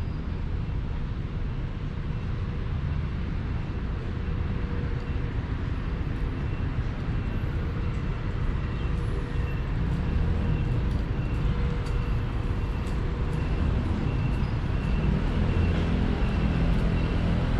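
Street traffic: a steady low rumble of vehicles that grows slowly louder, with a faint high tone pulsing at even intervals above it.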